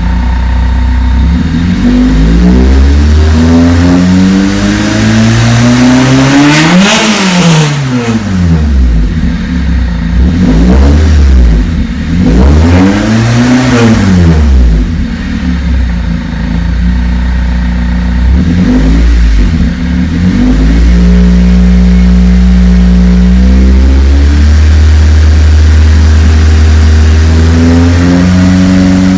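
Honda D16Y8 four-cylinder engine being revved: the pitch climbs steadily and falls back, then rises and falls again a few more times, before it settles into a steady idle for the last several seconds. It runs cleanly without sputtering, the fault cured by a replacement fuel pump.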